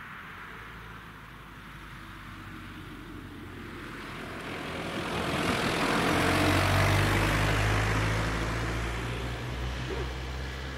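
A motor vehicle passing close by: a low engine drone with a steady hum rises to a peak about six to seven seconds in, then fades.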